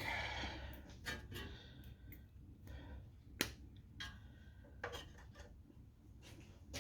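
Faint handling sounds of small engine parts being worked on: scattered light clicks and rubbing, with one sharper click about three and a half seconds in, as the spark plug is readied for a spark check.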